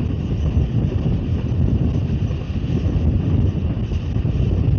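Steady low rumble of a moving passenger train, with wind on the microphone.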